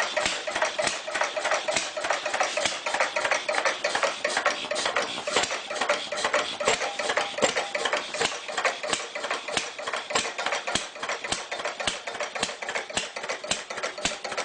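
Small motor and plastic gears of a battery-powered Thomas and Friends toy engine running with a steady, rapid clicking rattle.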